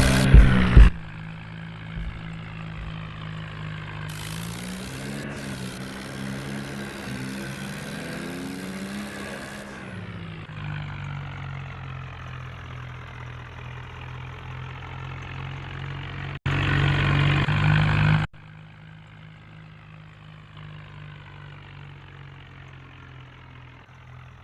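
John Deere tractor's diesel engine running steadily, its pitch rising and falling between about four and ten seconds in. Near two-thirds through, a louder two-second stretch of the engine cuts in and out abruptly.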